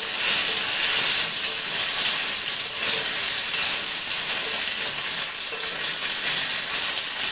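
Boiled taro root pieces sizzling steadily in hot oil in a kadai, stirred with a steel spoon that scrapes against the pan.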